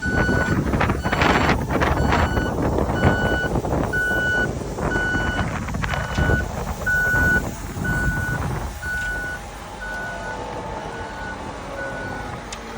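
A truck's reversing alarm beeping steadily, about once a second, over heavy wind buffeting the microphone; the wind noise drops after about nine seconds.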